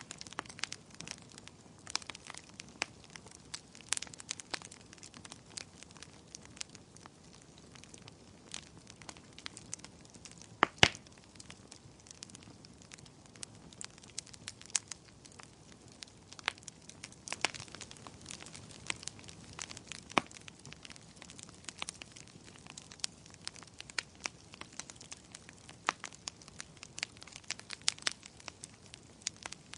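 Wood fire crackling: irregular sharp pops and snaps over a soft steady hiss, with a louder double pop about eleven seconds in.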